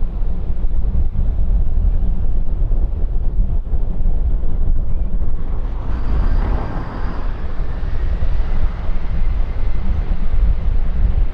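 Jet airliner engines rumbling, with wind buffeting the microphone. About six seconds in, a rushing hiss and a faint high engine whine swell up and carry on.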